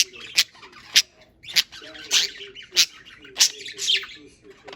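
Pet budgerigars squawking and chirping, a string of sharp, high calls about every half second.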